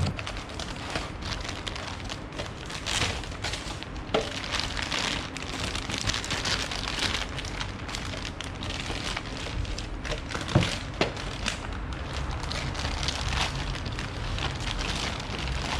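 Crackling, rustling handling noise with scattered light clicks and a few sharper knocks, the loudest about ten and a half seconds in, as the new and old fuel-pump assemblies are handled.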